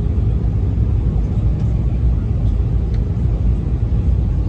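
Airbus A319 cabin noise: a steady low rumble of the engines and airflow heard from inside the passenger cabin.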